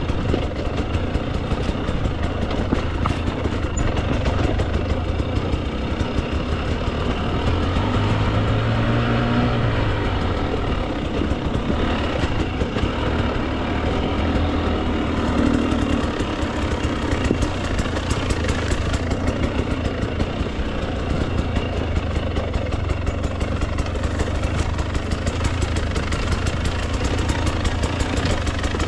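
Two-stroke dirt bike engine running at low revs while trail riding, picking up briefly with the throttle about eight seconds in and again around fifteen seconds.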